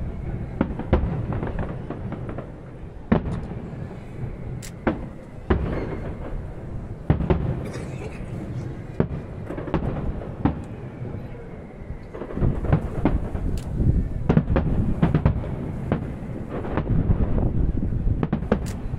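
Aerial fireworks shells bursting: irregular sharp bangs and crackles over a low rumble. They come thicker and louder in the last few seconds.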